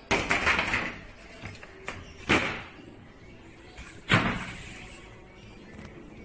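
Handling noise during a washing-machine repair: a rattling clatter in the first second, then two sharp knocks, about two and four seconds in.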